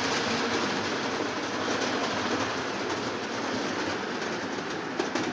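Lionel 2026 model steam locomotive running on tinplate track with its train of boxcars: a steady whir and rattle of motor and wheels, with a few sharp clicks about five seconds in.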